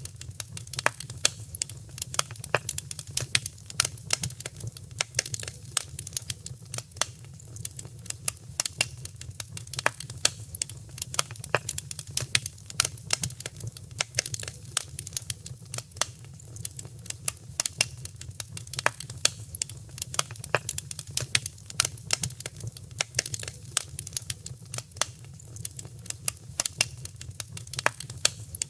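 Wood fire crackling: many sharp irregular pops and snaps over a steady low rumble of burning.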